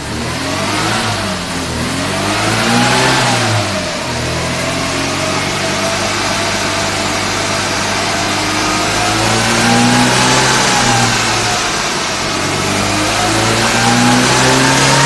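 A 1960s Mini's BMC A-series four-cylinder engine revving under load on a rolling road. The revs climb for about three seconds, drop back around four seconds in, then rise and fall twice more.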